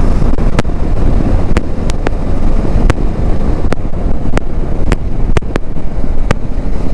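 Heavy wind noise buffeting a motorcycle vlogger's action-camera microphone at road speed, a loud low rumble. About a dozen sharp crackling clicks break through it at uneven intervals: the crackle noise the rider is checking the mic setup for.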